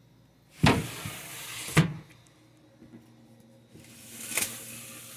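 Ice cream freezer's lid being opened and then shut: a scraping rush with a knock, twice, the first in the opening two seconds and the second near the end.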